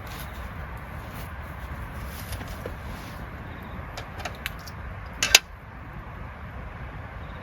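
A few light clicks, then one sharp, loud clack about five seconds in, over a steady low rumble.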